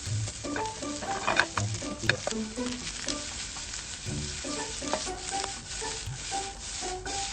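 Food sizzling and spitting in a pan over a small wood fire, with sharp crackles here and there, under light background music.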